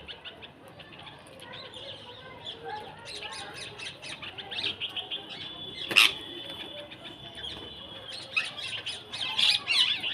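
A flock of small birds chirping and twittering in quick, overlapping calls, with a thin steady high note held for a few seconds in the middle. A single sharp snap comes about six seconds in, and the chirping grows denser and louder near the end.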